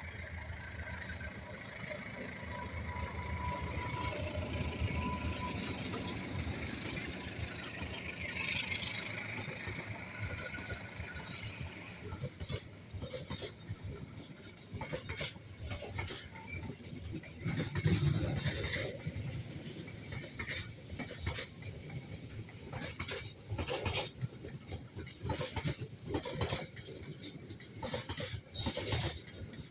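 Passenger train passing over a level crossing: a rushing rumble builds over the first ten seconds, then gives way to a long run of sharp wheel clacks over the rail joints as the coaches go by.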